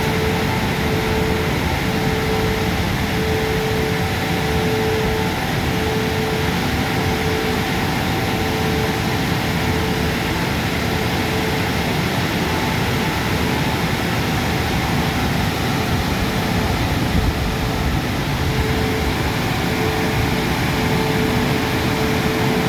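Christ Vitesse gantry car wash running: a steady rush of machinery noise with a humming tone that pulses on and off.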